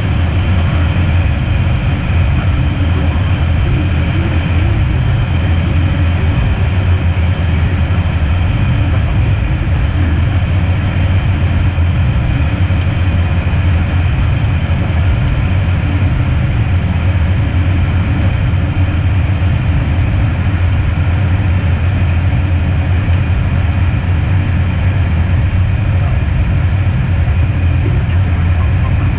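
Steady cabin noise inside the cockpit of an Embraer Phenom twin-turbofan jet in flight: airflow over the airframe mixed with engine noise, with a strong low drone.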